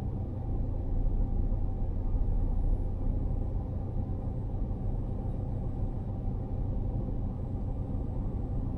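Steady low rumble with no sharp events.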